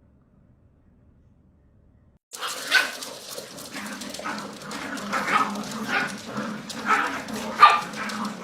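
A dog barking and yipping in a string of short calls, starting about two seconds in.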